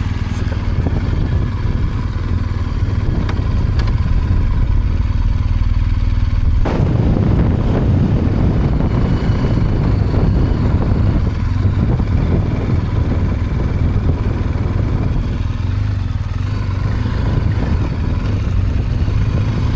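BMW R 1250 GS Rallye's boxer-twin engine running steadily. About seven seconds in the sound turns suddenly louder and fuller as the bike moves off.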